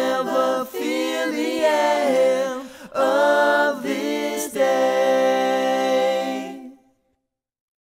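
Closing line of a song sung by voices in harmony, with no instruments heard, ending on a long held note that fades out about seven seconds in.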